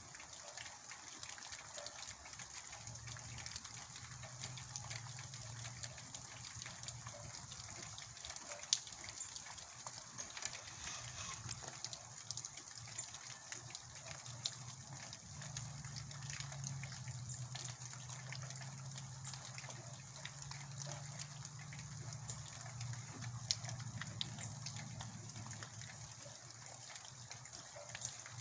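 Heavy rain falling, a steady wash with the patter of many individual drops and water gushing and trickling. Under it a low hum fades in and out, loudest in the second half.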